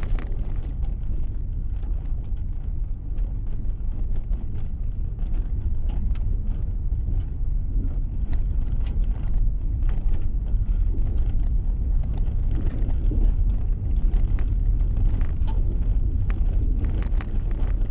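Steady low rumble of a car driving, with tyre and engine noise heard from inside the cabin and scattered faint ticks and rattles.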